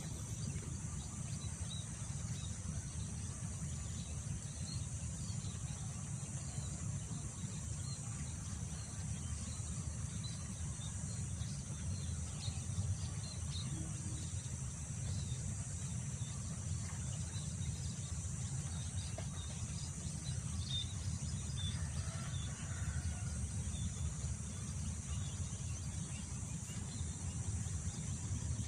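Outdoor ambience of wind rumbling steadily against the microphone, under a steady high drone of insects and scattered faint bird chirps, with a brief louder bird call about three quarters of the way through.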